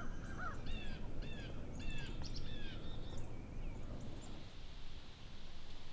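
A bird giving a run of about five short calls, each sliding downward in pitch, about two a second, stopping about halfway through. Beneath it runs a steady low background rumble.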